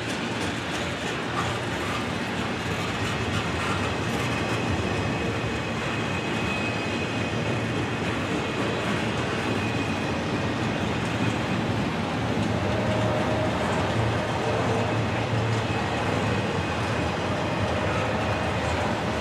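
Double-stack intermodal freight train's well cars rolling past, a steady noise of steel wheels on the rails, with a faint high steady tone over it through the middle stretch.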